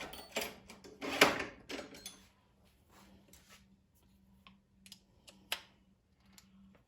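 Sharp clicks and taps of hand tools working on an air-powered flange tool's small metal parts, several close together with the loudest about a second in, then a few sparser, fainter clicks.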